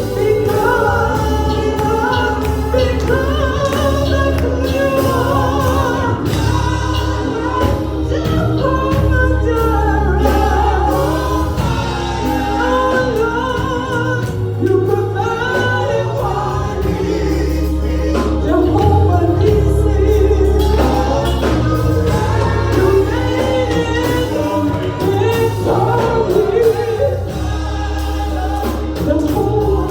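Gospel song with a choir and voices singing over a band with heavy, sustained bass.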